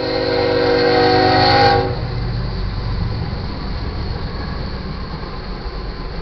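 Lead locomotive's air horn, a GE ES44C4, sounding one chord of several notes that cuts off about two seconds in. After it, the locomotive runs past the crossing with a steady low rumble of engine and wheels.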